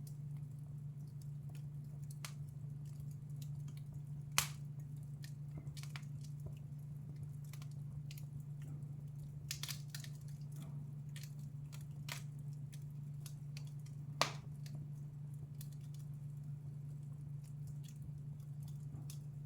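Wood fire in a fireplace crackling: scattered small clicks, with two sharp, louder pops about four seconds in and about fourteen seconds in, over a steady low hum.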